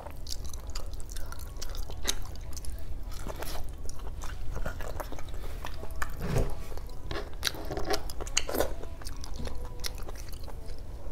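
Close-miked chewing and wet mouth sounds of someone eating boiled pork hock meat and skin, with many small clicks and smacks over a steady low hum.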